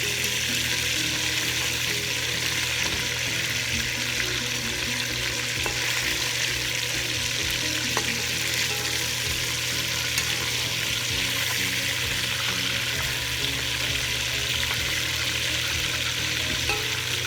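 Chicken leg pieces frying in hot oil in a pan, a steady sizzle with a few faint pops.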